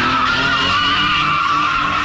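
Car tires squealing without a break, a wavering high screech over the steady note of the engine running.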